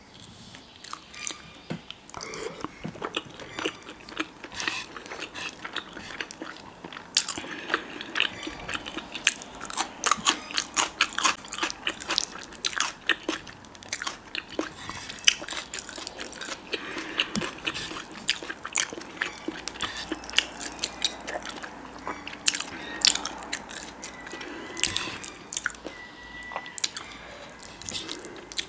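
A person eating close to the microphone: biting and chewing with many irregular wet clicks and crunches, denser from about a quarter of the way in.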